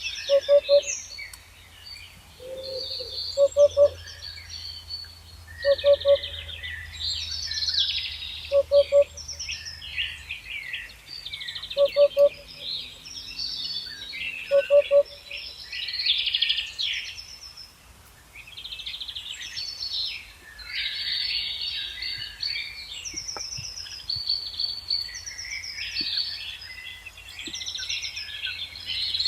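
Chorus of wild songbirds singing and chirping. A lower call of two or three quick notes repeats about every three seconds in the first half and is the loudest sound. A faint low hum stops about ten seconds in.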